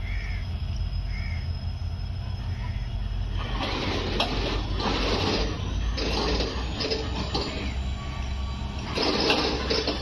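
Freight train of open wagons on the track, with a steady low rumble. From about three and a half seconds in, rattling wheel-and-rail noise swells in and comes and goes in waves.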